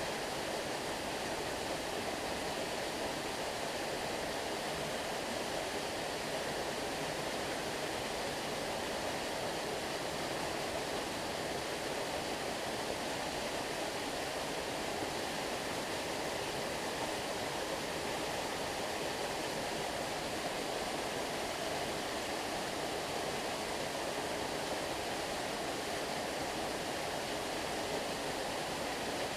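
Flowing stream water rushing steadily, an even wash with no separate splashes.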